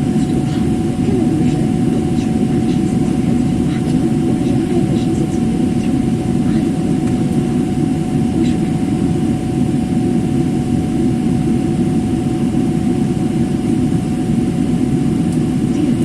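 Steady cabin noise inside a jet airliner: an even low rush with a faint steady tone above it.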